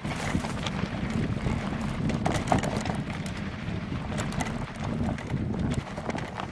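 Wind buffeting the microphone of a camera on a bicycle ridden into a headwind, with frequent small clicks and rattles from the ride over a rough trail.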